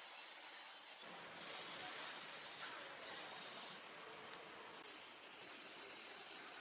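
A steady hissing noise whose highest part cuts out briefly several times.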